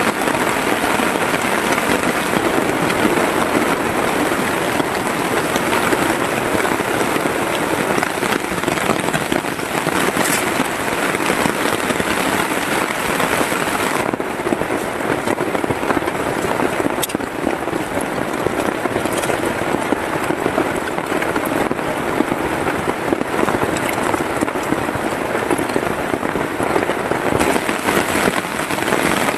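Heavy rain falling steadily, a dense even crackle of drops.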